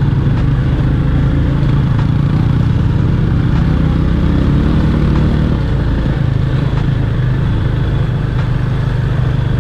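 Motorcycle engine running steadily while the bike is ridden, with a continuous low engine note.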